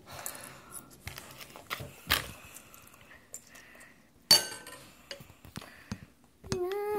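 Scattered light clinks and knocks of dishes and utensils being handled in a kitchen, with one sharper, louder knock about four seconds in.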